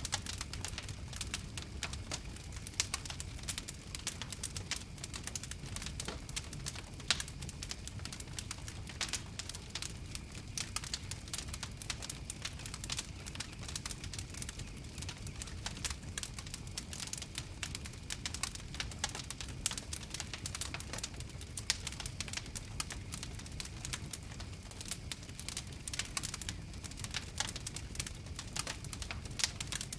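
Wood fire crackling steadily, with many small sharp pops and snaps at irregular intervals over a low, steady rumble of the flames.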